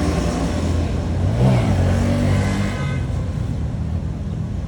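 A motor vehicle's engine running with a low rumble, swelling briefly about a second and a half in, then easing off.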